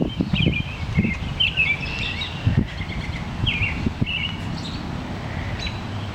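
Small birds chirping in short, repeated calls over a steady low outdoor background rumble.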